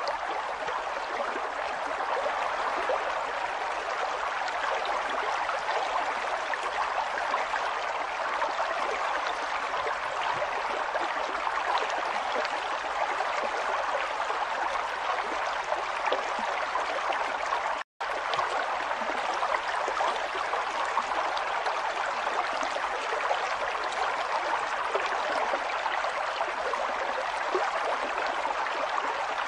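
River water running, a steady rush. It drops out for a split second about two-thirds of the way through.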